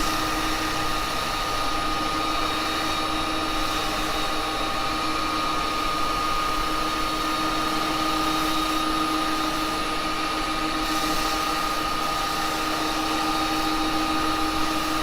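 Axminster wood lathe running at a steady speed, a constant motor hum with a whine on top, while wax is buffed onto the spinning cherry workpiece.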